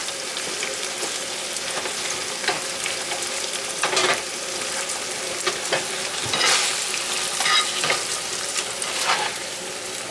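Pork and a ketchup-and-soy sauce mixture sizzling in a hot pan while being stirred, with a utensil scraping and clinking against the pan now and then.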